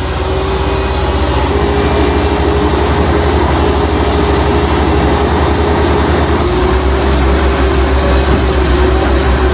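Heavy vehicle engine running steadily, with a deep pulsing rumble and a wavering drone above it; the rumble grows heavier about two-thirds of the way through.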